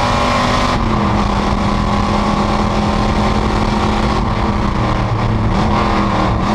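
Panoz GTS race car's engine running at steady revs, its pitch stepping down a little about a second in, then dipping briefly and rising again near the end.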